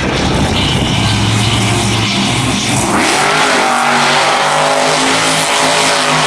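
Monster truck engine running hard in the arena, its pitch climbing sharply about three seconds in as it revs up, then holding high.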